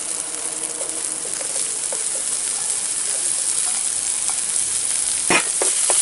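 Garlic sizzling in hot rendered pork fat in a frying pan, a steady hiss that grows louder as sliced red onion is tipped in. Near the end a metal spoon starts knocking and scraping against the pan as the onions are stirred.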